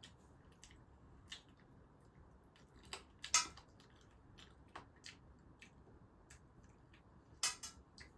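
Someone eating a meal: scattered small clicks and taps against a plate or dish, with louder clinks about three seconds in and again near the end.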